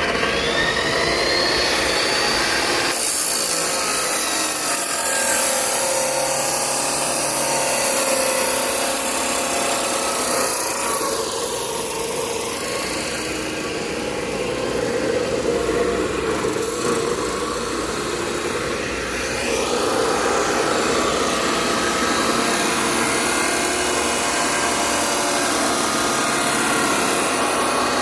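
CNC machine cutting steadily: continuous cutting noise with a spindle whine that shifts in pitch.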